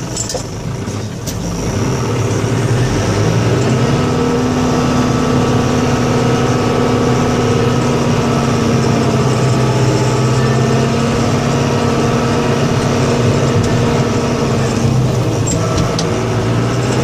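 Snow-clearing vehicle's engine running steadily under load, growing louder about two seconds in, with a steady hum held from about four seconds to fifteen.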